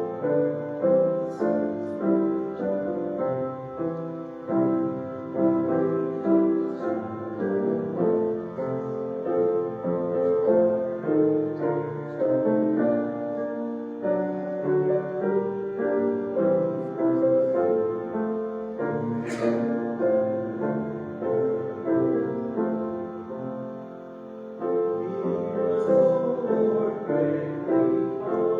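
Piano playing an instrumental piece of sustained chords and melody. There is a brief sharp noise about two-thirds of the way through.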